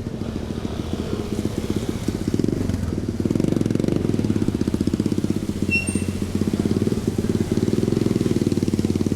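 A small engine running close by with a fast, low, even putter that grows louder about three seconds in. A short high chirp sounds once just before the six-second mark.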